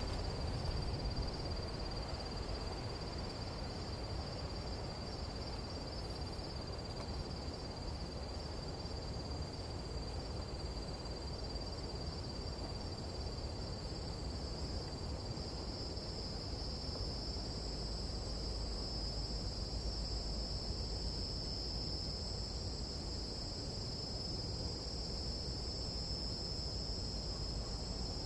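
Tropical jungle insect chorus at night: a steady, high-pitched shrill that swells about halfway through, over a constant low rumble of wind.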